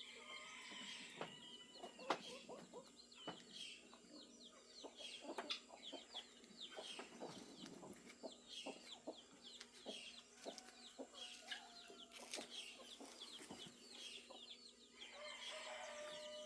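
Chickens clucking among many small birds chirping, all faint, with a longer wavering call near the end.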